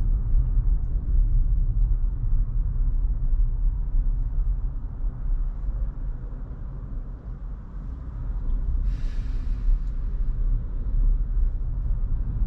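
Road and tyre noise heard inside an electric Tesla's cabin in slow highway traffic: a steady low rumble, with a brief hiss about nine seconds in.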